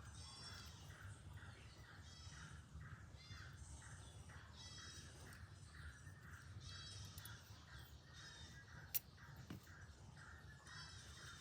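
Faint bird calls: short high calls repeating in clusters over a steady row of softer pulses, with a single sharp click about nine seconds in.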